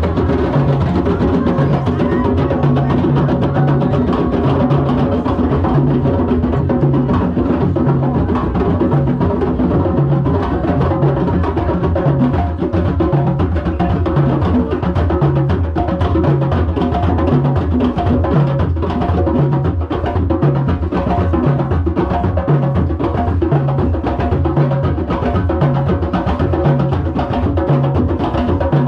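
Drum circle: many hand drums played together in a steady, driving rhythm, with dense strikes over a deep drum beat repeating about once a second.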